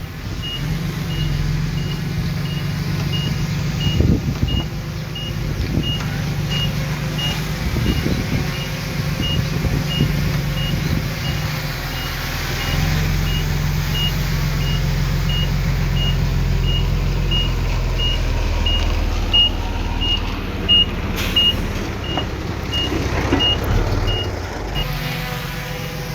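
Heavy diesel earthmoving machine running under load while its reversing alarm beeps steadily, about twice a second, stopping shortly before the end.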